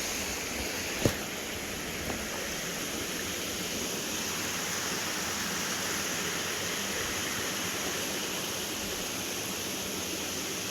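Steady rush of falling and flowing water from a mountain waterfall and stream, with a single sharp knock about a second in.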